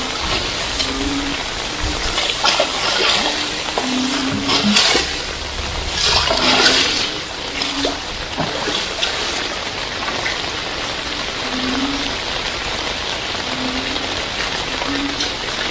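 Heavy rain falling steadily, with surges of rushing, splashing water that are loudest in the first half.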